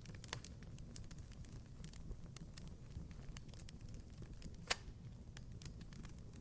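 Wood fire crackling in a fireplace: an irregular scatter of small snaps and pops over a low, steady rumble, with one louder pop about three-quarters of the way through.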